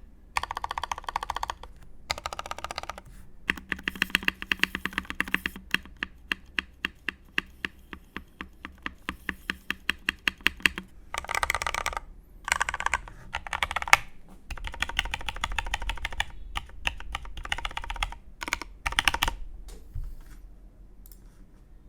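Custom Matrix 8xv2.0 mechanical keyboard being typed on: Krytox-lubed vintage Cherry MX Black linear switches in an aluminium plate, with Cherry SAV keycaps. Runs of rapid keystrokes with denser bursts of fast typing through the middle, thinning out and dying away near the end.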